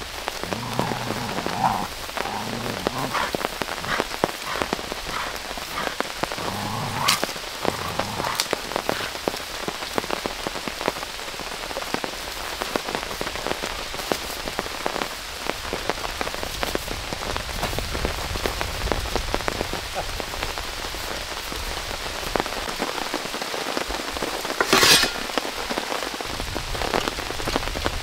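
Steady rain falling, with many individual drops striking close by. A brief, louder burst stands out about three seconds before the end.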